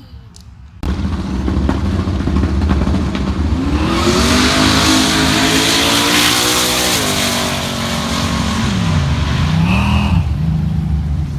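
A drag-race car's engine running loud and revving hard: its note climbs for about three seconds, then falls sharply, followed by two quick dips and rises in revs.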